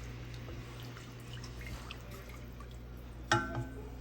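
Chicken stock being stirred into a roux in a pot: faint sloshing and dripping of liquid over a steady low hum. A sudden ringing clink sounds near the end.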